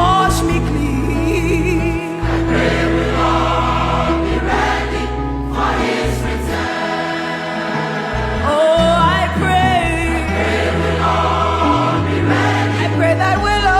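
Gospel choir singing over sustained deep bass notes.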